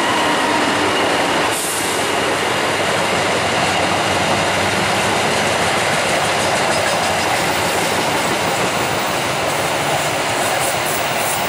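Steel coaches of a diesel-hauled intercity passenger train rolling past at speed, a steady rumble and hiss of wheels on the rails. Near the end, regular wheel clicks over the rail joints come through.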